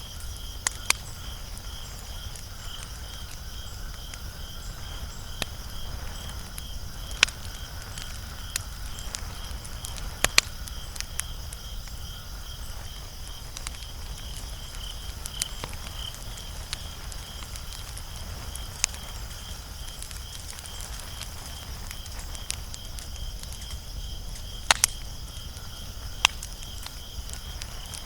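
Wood fire crackling, with sharp pops scattered irregularly over a low steady rumble. Under it runs a continuous, high, pulsing chirp of insects.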